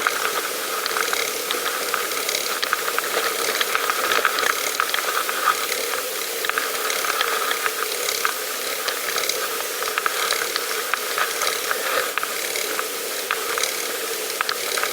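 Bicycle freewheel hub ticking rapidly and steadily, the pawls clicking over the ratchet as the bike coasts.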